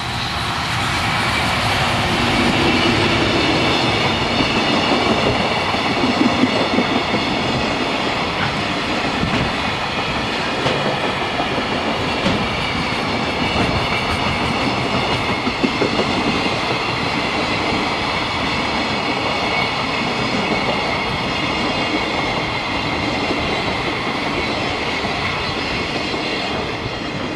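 Freight train wagons rolling past at speed, wheels clattering steadily over the rail joints, with a steady high ringing from the wheels and rails.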